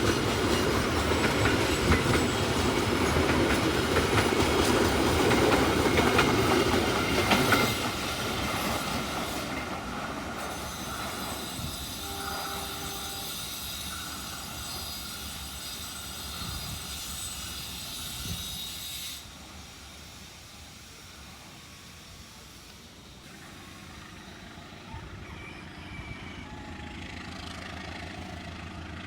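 A passenger train passing close by, its wheels clattering over the rail joints. It is loudest for the first seven or eight seconds, then fades as it moves away.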